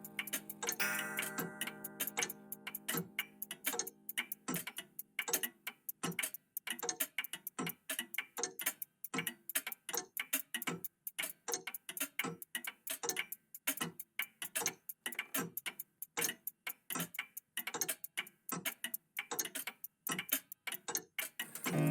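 Old clocks ticking, many overlapping ticks a second in a steady but uneven rhythm. Over the first few seconds a ringing clock chime dies away.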